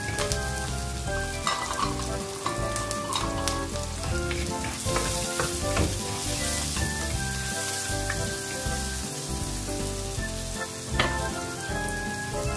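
Chopped tomatoes sautéing with onion, garlic and ginger in hot oil, sizzling steadily, while a spatula stirs them around a non-stick pan with scattered scrapes and taps. The sizzle grows brighter for a couple of seconds around the middle.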